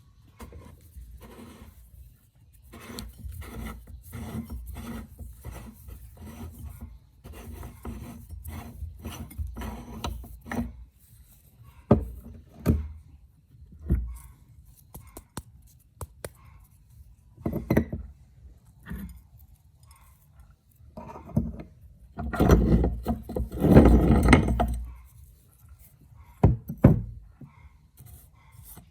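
Meat grinder crunching hard snacks: about ten seconds of rapid crackling and scraping over a low steady rumble, then a series of separate loud crunches, the loudest lasting a few seconds near the end.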